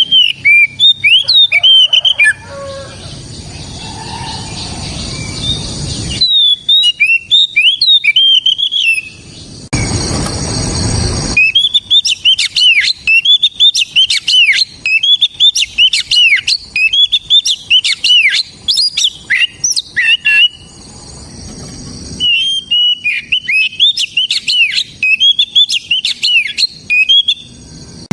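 Oriental magpie-robin (kacer) singing in loud, rapid runs of whistled notes that sweep up and down, in several bursts with short pauses between them. A brief burst of rushing noise comes about ten seconds in.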